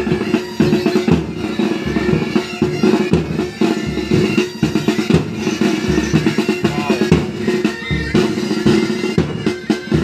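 A military pipe band playing: bagpipes sounding a steady drone and melody over side drums and bass drum beating continuously, with snare rolls.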